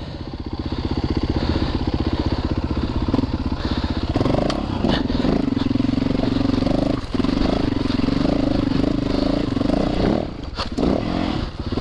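Dirt bike engine running under throttle, the revs building and held higher from about four seconds in, with a few knocks mixed in.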